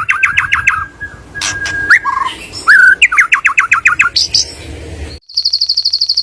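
White-rumped shama (murai batu) singing: fast runs of repeated sweeping notes broken by a long, steady whistle. About five seconds in, the sound switches abruptly to a rapid, even series of higher, sharper notes.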